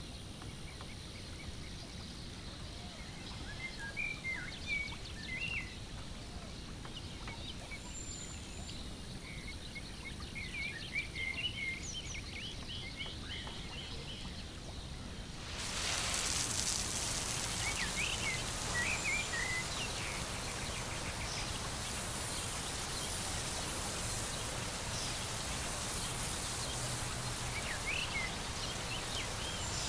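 Outdoor ambience with small birds chirping in short, scattered phrases. About halfway through, a steady hiss comes in suddenly and stays under further chirps.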